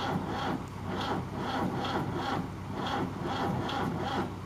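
Rhythmic back-and-forth scraping or rubbing, about three strokes a second, like a hand tool or brush worked over a surface.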